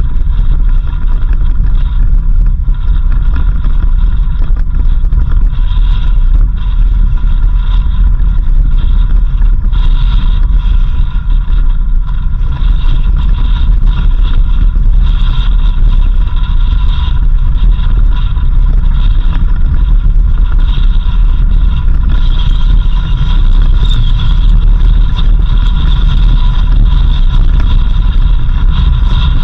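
Off-road 4x4 vehicle driving on a dirt road: a loud, steady low rumble of engine and road noise that does not let up.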